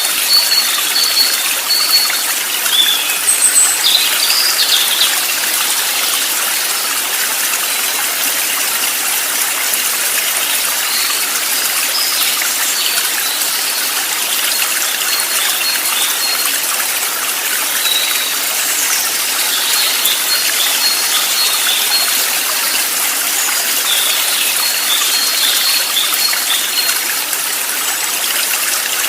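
Steady rushing of a flowing stream, with short high bird chirps over it in the first few seconds and again in the second half.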